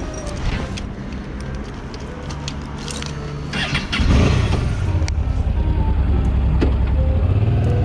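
Light clicks and jingling, then a motorcycle engine starts about four seconds in and settles into a steady, loud idle.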